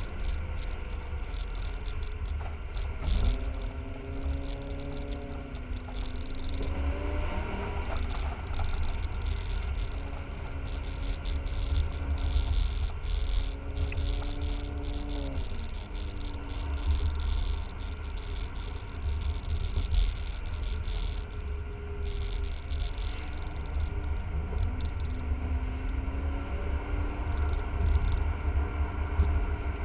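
BMW E39 5 Series engine and road noise heard from inside the cabin on a spirited drive. The engine note climbs under acceleration and drops back several times as the manual gearbox is shifted, over a constant low rumble of tyres and wind.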